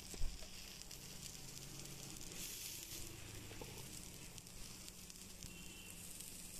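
Oil sizzling steadily under parottas stuffed with mutton kothukari as they fry on a flat dosa griddle, after being pressed and flipped to crisp both sides. The sizzle swells briefly in the middle, with a short knock just after the start.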